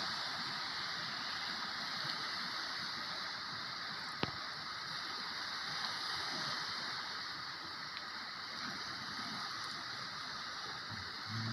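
Steady rushing of sea water, with one sharp click about four seconds in.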